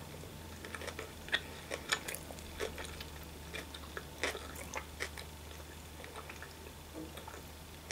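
A person chewing a large sushi roll with her mouth closed: irregular wet mouth clicks and smacks, busiest in the first few seconds and thinning out later.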